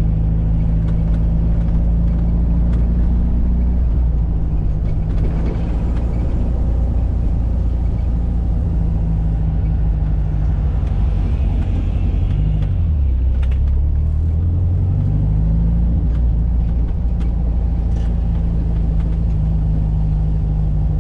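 1985 VW Fusca's air-cooled flat-four boxer engine running steadily while the car is driven. About two-thirds of the way through, the engine note drops and then climbs back.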